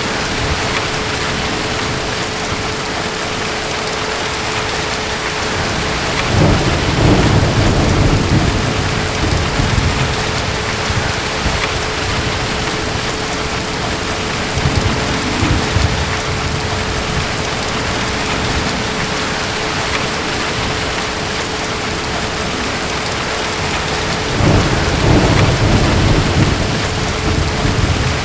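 Steady heavy rain with low rolls of distant thunder: a long roll about six seconds in, a shorter one around fifteen seconds, and another near the end.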